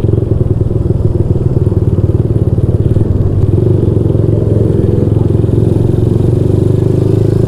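Honda Supra X 125's single-cylinder four-stroke engine running steadily while riding at low speed, its exhaust pulsing evenly.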